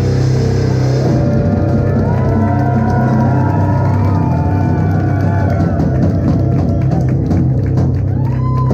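Rock band playing loud live: distorted guitars and bass holding a sustained low droning chord, with high gliding squeals over it.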